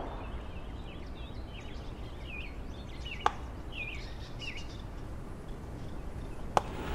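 Outdoor ambience with a steady low rumble, and small birds chirping a run of short calls that rise and fall in pitch in the first half. Two sharp clicks about three seconds apart.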